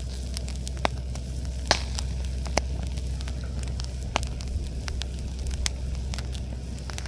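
Wood campfire crackling, with scattered sharp pops, over a steady low drone from a boat's engine running. The camper calls the boat engine very loud.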